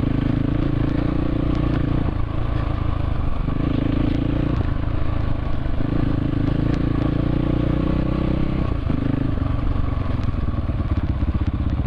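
Dirt bike engine running under way, its note shifting several times with throttle and gear changes, and settling into a slower, lower beat near the end.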